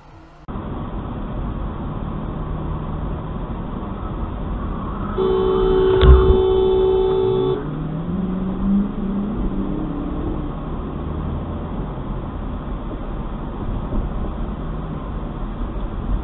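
Car horn held for about two seconds over steady road noise in a moving car, with a single sharp thump in the middle of the honk.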